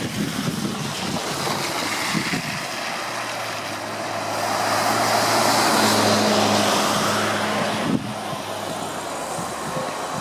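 Heavy vehicle driving past, its engine drone and tyre noise swelling to the loudest point about six seconds in, then easing off.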